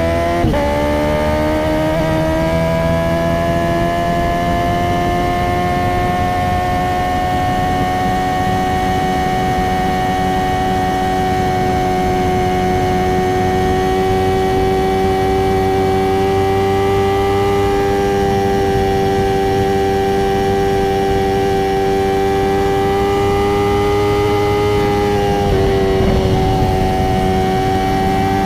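Honda CBR650R's inline-four engine through an Akrapovic titanium slip-on exhaust with no dB killer, running under way at steady revs. The note climbs at the start, then holds nearly level, with a brief break just after the start and another a few seconds before the end.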